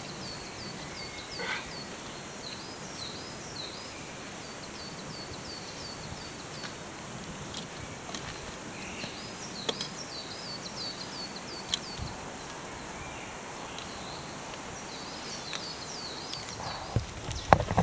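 Forest ambience with a bird repeating quick, high chirps in long runs. A few light clinks of a spoon against a metal camping mug, and a louder knock near the end.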